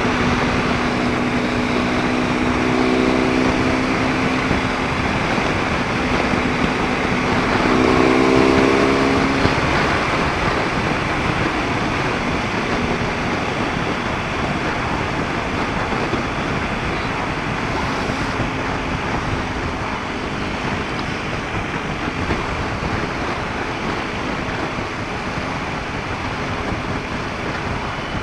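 BMW R1250 GS Adventure's boxer-twin engine pulling along under heavy wind rush, heard through an action camera's built-in microphone. The engine note rises about eight seconds in, then sinks into steady wind and road noise.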